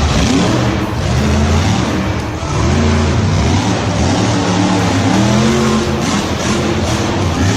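Engine revving, its pitch rising and falling again and again.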